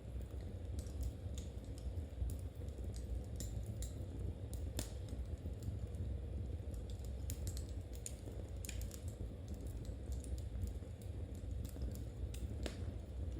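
Knitting needles clicking lightly and irregularly as stitches are worked, over a steady low rumble.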